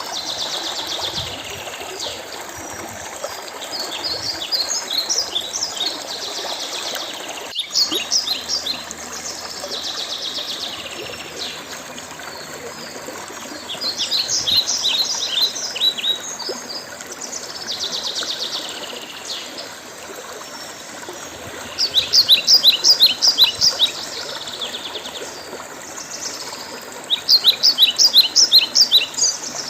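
Songbirds singing repeated phrases of rapid high chirping notes every few seconds, loudest about two-thirds of the way in and near the end, over a steady trickle of running water. One sharp click about a quarter of the way in.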